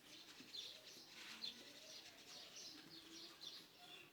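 Faint birds chirping, many short high calls in quick succession.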